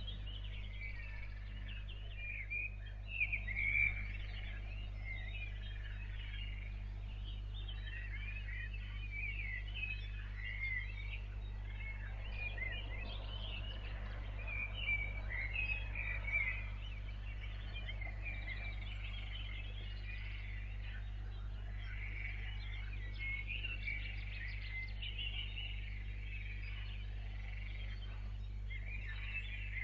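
Many small birds chirping and singing at once in a dense dawn chorus, over a steady low hum.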